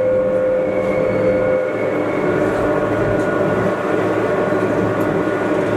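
Gornergrat Bahn electric cog-railway train climbing: steady running noise with a clear whine that fades out about a second and a half in.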